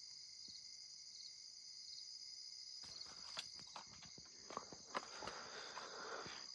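Crickets chirring steadily, with rustling and scattered clicks starting about three seconds in.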